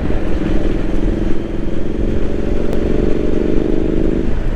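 2017 Triumph Street Scrambler 900's parallel-twin engine running at a steady note under way, with low wind and road rumble; the note eases off near the end.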